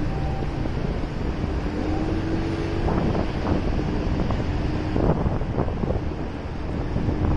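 Motorcycle riding along a street, its engine running steadily under heavy wind noise on the microphone, with a few soft thumps in the middle.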